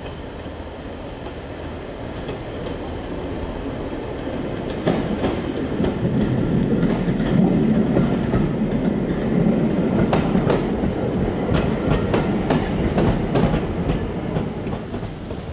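British Rail 'Thumper' diesel-electric multiple unit 1317 passing close by. Its low rumble swells about a third of the way in, and its wheels click sharply and irregularly over rail joints and points.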